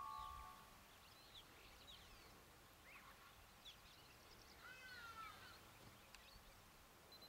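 Near silence with faint wild bird calls: scattered short chirps and whistles, and a longer warbling call about five seconds in.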